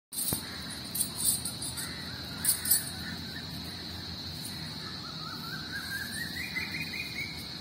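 Outdoor bird calls, with one series of notes rising in pitch over the last few seconds, over a steady high-pitched whine. A few brief hissy rustles come in the first three seconds.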